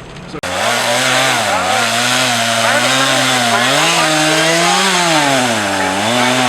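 Chainsaw engine running at high revs, its pitch repeatedly dipping and recovering as it works. It starts abruptly about half a second in.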